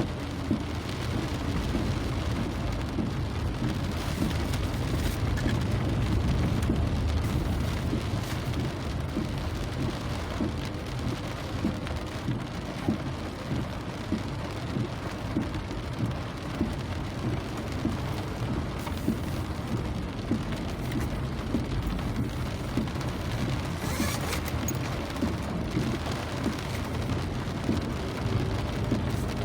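Rain falling steadily, a dense patter of drops over a continuous low rumble.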